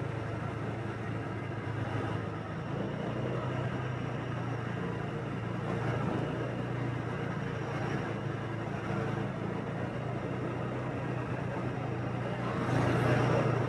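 Motorbike engine running steadily on a street ride, with road and traffic noise around it; the noise swells briefly near the end.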